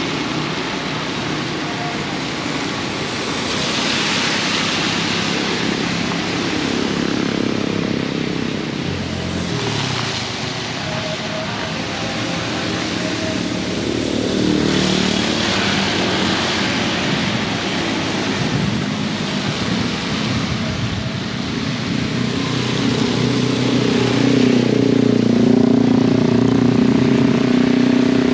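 Heavy rain pouring steadily, with several motor vehicles passing on the wet road in turn, each swelling up and fading away; near the end an engine's pitch glides down as it goes by.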